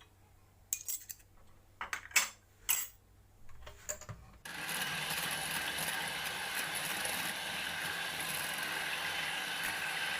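A few light taps and clinks of utensils on a bowl, then about four and a half seconds in an electric hand mixer starts up and runs steadily, beating the cake batter.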